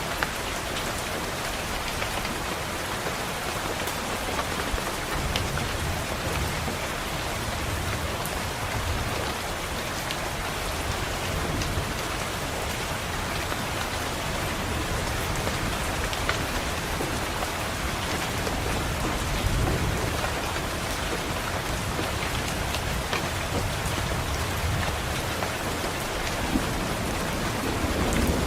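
Steady heavy rain against a window, with low thunder rumbling at times, most strongly about two thirds of the way in and again near the end. Scattered sharp ticks sit over the rain.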